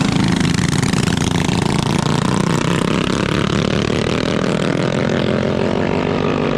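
Small mini bike engines running loudly, with one revving higher and rising steadily in pitch over the last few seconds.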